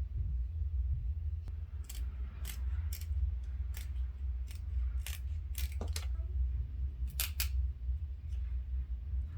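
Duct tape being cut and handled: a string of about a dozen sharp snips and clicks between about two and seven and a half seconds in, over a steady low hum.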